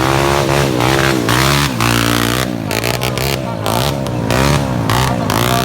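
Small underbone motorcycle engines racing, revving up and dropping off again and again as the bikes work the motocross track, with more than one engine heard at once at times.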